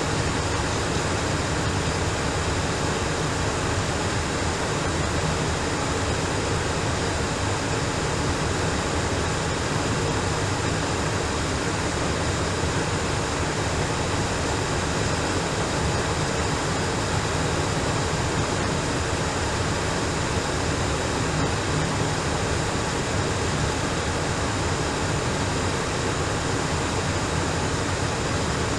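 Steady hiss of an air traffic control radio feed in a gap between transmissions, unchanging throughout.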